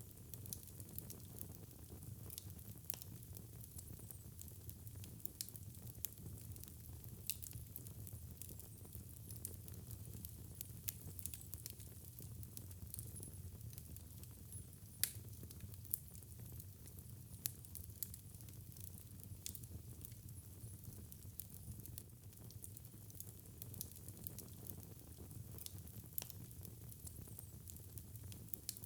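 Fire in a fireplace crackling: frequent small, irregular pops and snaps over a steady low rumble of flames, with one louder pop about halfway through.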